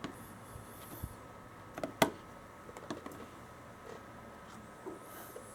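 Light clicks and taps of small plastic model parts and tools being handled on a workbench, with one sharper click about two seconds in, over a faint steady hum.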